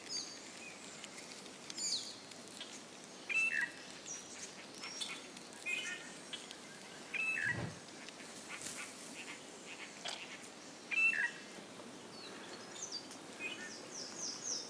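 Forest birds calling: short chirps and whistled notes, each on its own, a second or two apart, over a faint steady hiss. A fast, high trill starts near the end.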